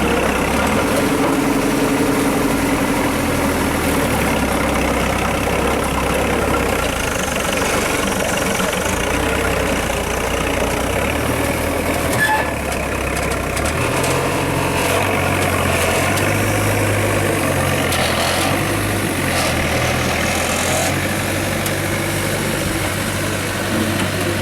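Off-road competition truck engine running, its speed shifting up and down in steps as it works through a trial section, with a brief click about halfway through.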